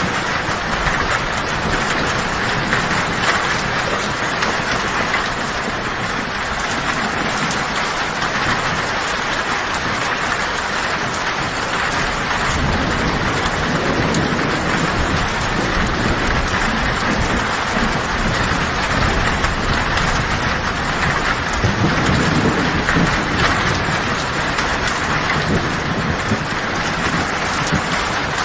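Heavy rain drumming steadily on a tin (metal) roof, with distant thunder rumbling low in the background twice, around the middle and again later on.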